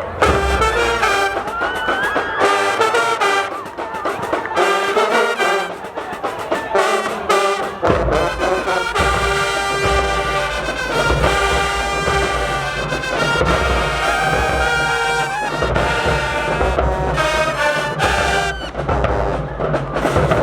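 High school marching band brass playing a loud, punchy tune with trumpets and trombones. About eight seconds in, a heavy low end of drums and low brass comes in under the horns and stays.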